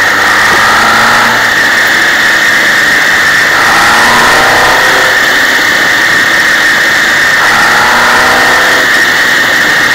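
MV Agusta sidecar outfit's engine running under way on a winding road, its pitch rising twice, about three and a half and seven and a half seconds in, as it accelerates out of bends, over steady wind and road noise.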